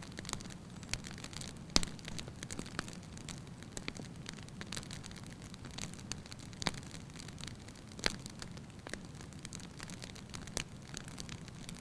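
Wood fire burning in a fireplace: a steady low rumble of flames under scattered crackles, with a few sharp, louder pops, the loudest about two seconds in.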